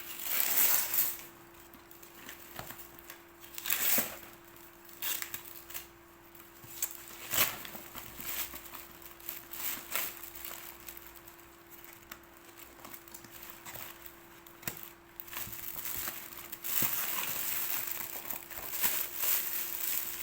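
Gift wrapping crinkling and crumpling in irregular bursts as a present is pulled open by hand, with a faint steady hum underneath.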